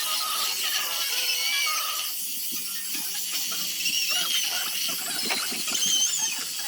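Zelkova wood basket being sanded: a steady abrasive hiss with many short scratchy strokes.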